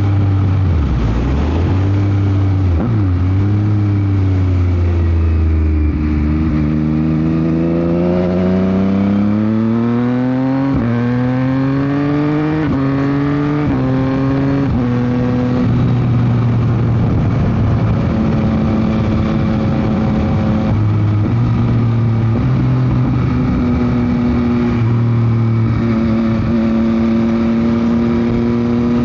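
Yamaha MT-09 SP's three-cylinder engine through a Dominator GP aftermarket exhaust, accelerating up through the gears. The pitch rises and then drops suddenly at each quick-shifter upshift, about one a second, before the bike settles to a steadier speed with a few more shifts. Wind noise rushes over the microphone underneath.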